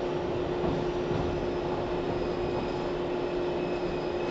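Steady hum inside a JR 413 series electric train car: one constant mid-pitched tone over a low rumble, with no wheel beat.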